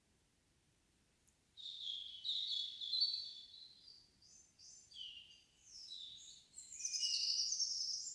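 A songbird singing one long, varied song of quick changing phrases, starting about a second and a half in, after a quiet moment, and climbing higher and louder near the end.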